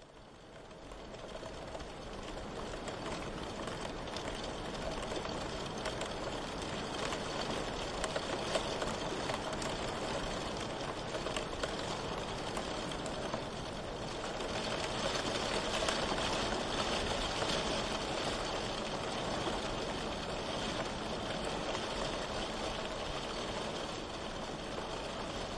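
Steady rain falling, a dense hiss of many small drop impacts, fading up over the first couple of seconds and then continuous.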